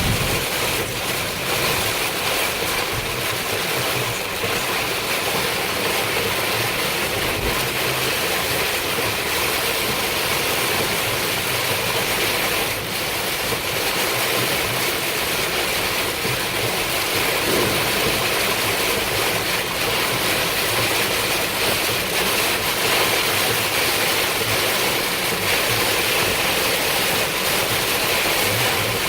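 Heavy rain pelting a moving car, a dense steady hiss of many small hits over the car's road and engine noise.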